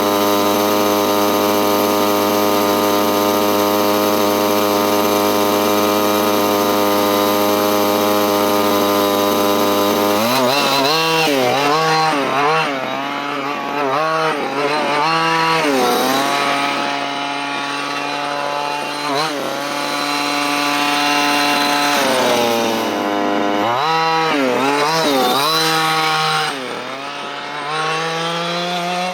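Dynamite CY23cc 23cc two-stroke gas engine of a 1/5-scale RC buggy running at a steady speed for about ten seconds, then revved up and down again and again, with a spell of steady lower running in the middle, while being broken in.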